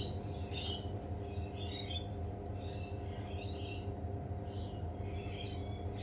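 Birds calling: short, high warbling phrases repeated about every second, over a steady low hum.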